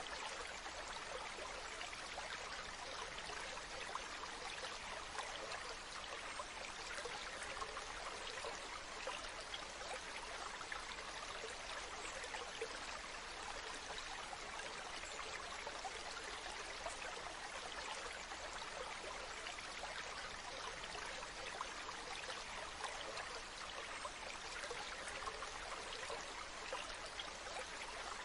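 Waterfall: water falling and splashing in a steady, unchanging rush, mostly hiss and splash with little deep rumble.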